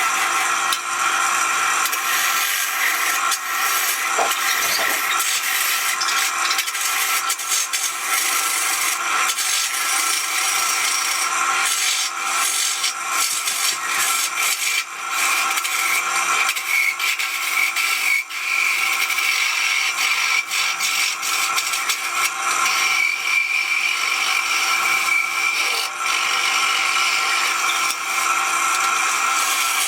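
A tool working wood without a break, its rasping noise over a steady high whine.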